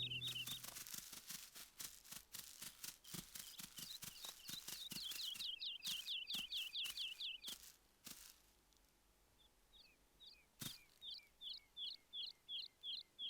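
A small bird calling in fast series of short, high, down-slurred chirps, about four a second. Dry crackling clicks run through the first half and one sharp click comes shortly before a second series of chirps near the end.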